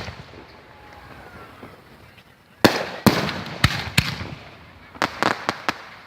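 Aerial fireworks bursting. It is quieter at first, then a sharp bang comes about two and a half seconds in, with three more about half a second apart and a quick run of crackling pops near the end.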